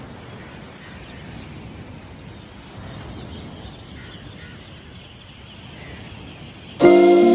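Low, even outdoor background noise with no clear single source. Near the end, guitar music starts suddenly and is much louder.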